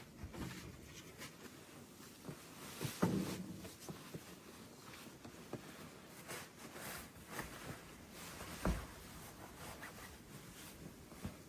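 Scattered rustling and handling noises with a few soft knocks, the loudest about three seconds in and another near nine seconds.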